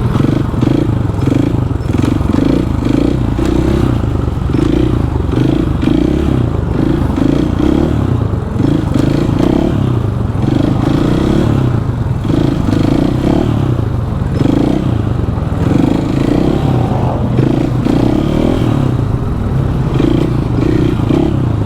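Supermoto motorcycle being ridden, its engine running loud with the note surging and dropping again and again as the throttle is worked.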